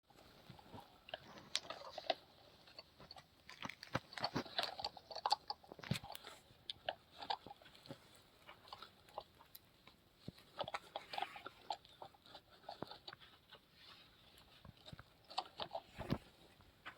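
Irregular light clicks, taps and clatter, like small hard objects being handled and knocked together, coming in scattered clusters with short gaps.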